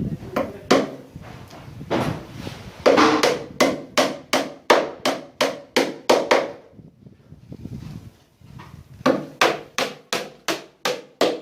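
Carpenter's hammer blows, struck in steady runs of about three a second: one run about three seconds in that dies away, a pause, then a second run about nine seconds in.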